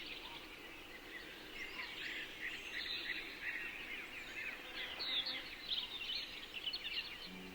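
A dense chorus of many small birds chirping, with short overlapping calls crowding over one another throughout.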